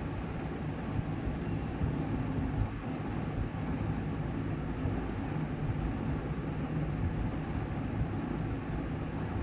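Steady low hum with background hiss and no distinct events.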